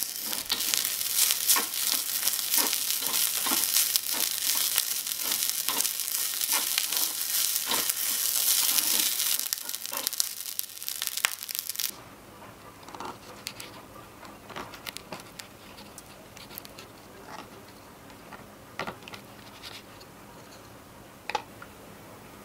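A small batch of fried rice sizzling in a miniature aluminium pan while a wooden spatula stirs and taps against it. The sizzling stops suddenly about halfway through, leaving only faint scattered taps and clicks of a tiny sausage being cut and handled on a wooden cutting board.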